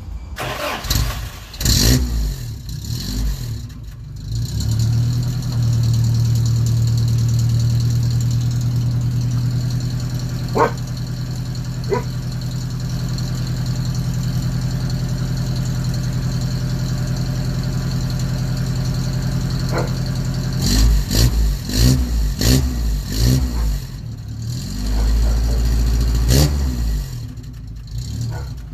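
Cold start of a 1988 Daihatsu Rocky's Toyota 3Y four-cylinder engine through a 2-inch custom exhaust: it catches unevenly in the first few seconds, settles into a steady idle, and is given several quick blips of the throttle near the end.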